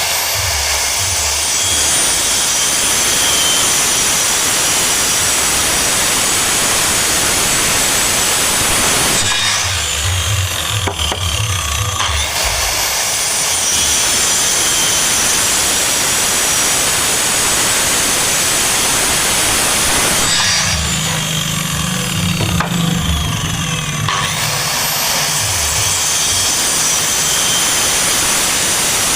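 Power saw cutting through wood in a long, steady cut. It lets up twice briefly, about a third and two thirds of the way through.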